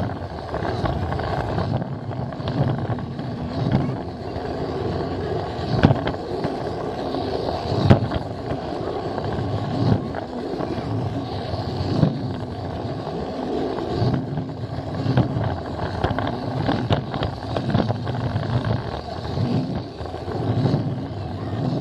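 Plarail toy train running on plastic track, heard from the camera car it carries: a steady motor whir and wheel rattle with occasional sharp clicks.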